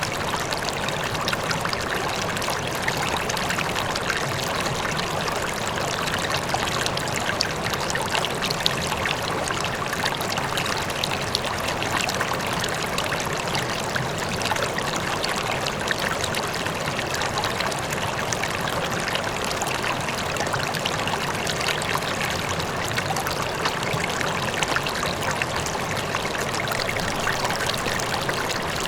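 River water flowing steadily over stones, a constant splashing and trickling rush with a faint waterfall beneath it.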